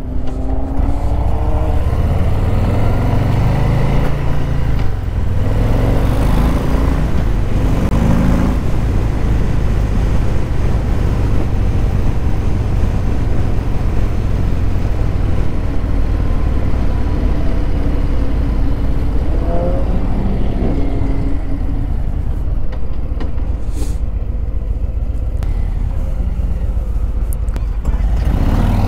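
Harley-Davidson Low Rider S's Milwaukee-Eight 117 V-twin engine under way while riding. It rises in pitch as the bike accelerates a few times, with steadier cruising between.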